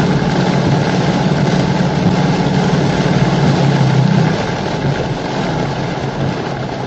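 A Toyota Fortuner's 2.8-litre four-cylinder turbodiesel pulling up a long climb, heard from inside the cabin, under the steady hiss of heavy rain on the roof and windscreen. The engine hum eases about four seconds in.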